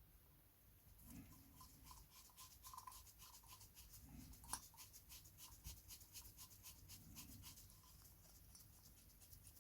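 Faint, quick light ticking and scratching from small hand-tool work on the engine, about four ticks a second, with one sharper click near the middle.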